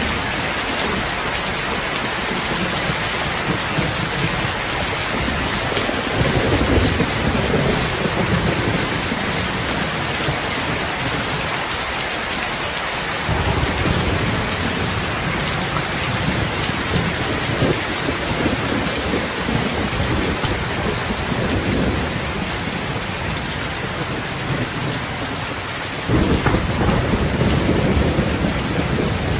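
Heavy rain falling steadily, with low rolling thunder swelling up several times and a louder rumble coming in suddenly near the end.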